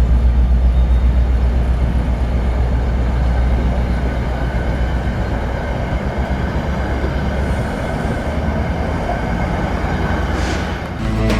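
A train rolling past: a deep engine rumble, strongest in the first couple of seconds, over the steady rush of wheels on the rails, with a faint thin squeal in the middle.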